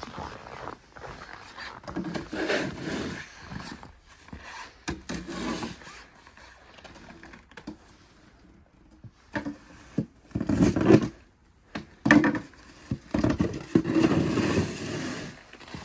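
Snow shovel scraping and pushing fluffy snow in irregular strokes, louder and more frequent in the second half.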